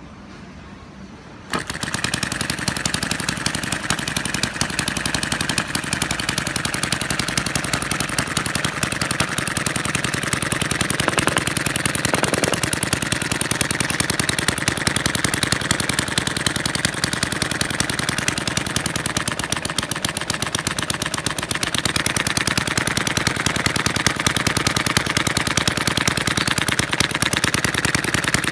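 Small model engine running steadily with a rapid, even train of firing pulses, cutting in abruptly about a second and a half in.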